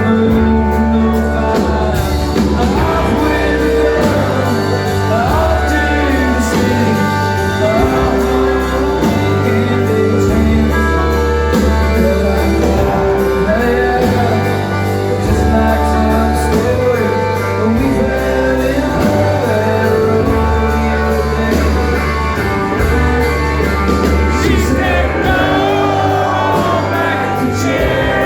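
A country rock band playing live, with a man singing over a steady bass line and guitars.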